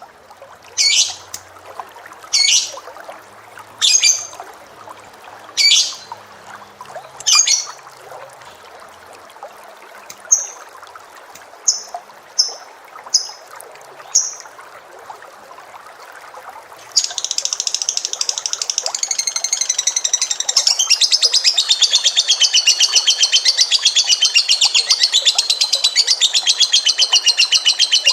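Cage bird calling: six sharp, sweeping high calls about a second and a half apart, then a few short clipped notes. About two-thirds of the way in, a loud, unbroken rapid trill starts and carries on.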